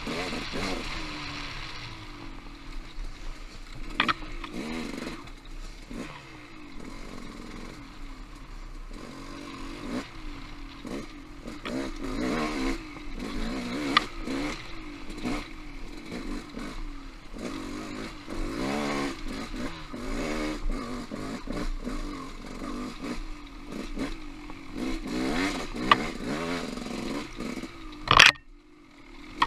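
Trail motorcycle engine revving up and down as it is ridden over rocky singletrack, with scattered knocks and clatter from the bike striking rocks. A loud knock near the end is followed by a brief drop almost to quiet.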